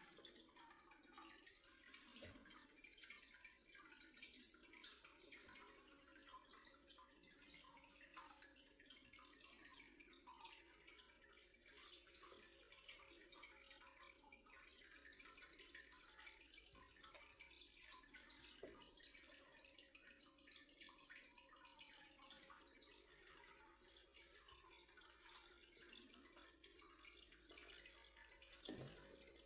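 Near silence: faint room tone with a low steady hum and a few scattered faint ticks.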